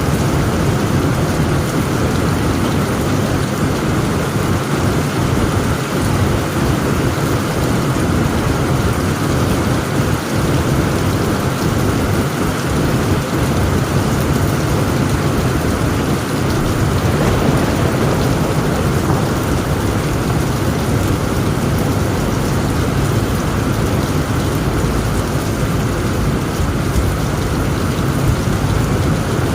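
Heavy rain pattering steadily on a tent roof, with a low thunder rumble underneath.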